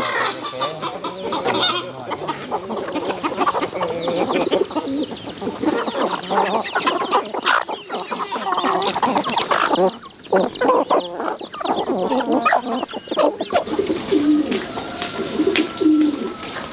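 A flock of chickens clucking, many birds calling over one another, thinning to a few separate clucks near the end.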